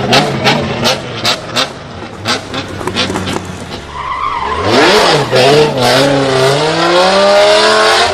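Drift car engine with a string of sharp exhaust bangs, then revving up about four seconds in and held at high revs while the tyres screech through a drift.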